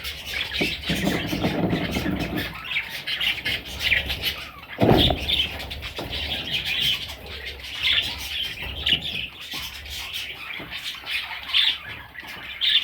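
Newly hatched budgerigar chicks calling, a run of short, repeated squawks and chirps. About five seconds in there is one loud thump.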